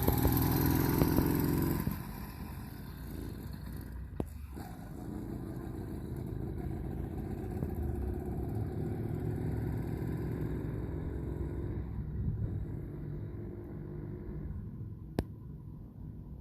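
Wildcat PK80 motorized-bicycle kit's small two-stroke engine running, loud for the first two seconds and then settling into a steady drone that rises and falls a little. A single sharp click near the end.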